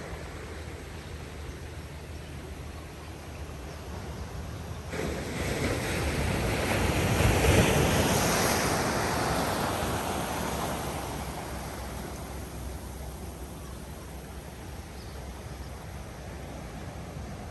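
Ocean surf: a wave swells and breaks about halfway through, then washes out, over a steady wash of sea with wind on the microphone.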